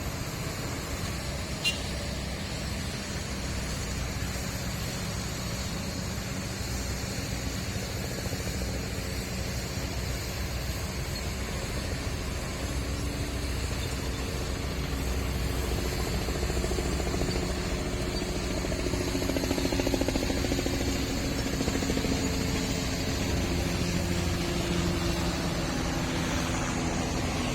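Heavy truck engine running steadily with a low rumble; about halfway through it speeds up and gets louder, peaks about two-thirds of the way in, then eases slightly.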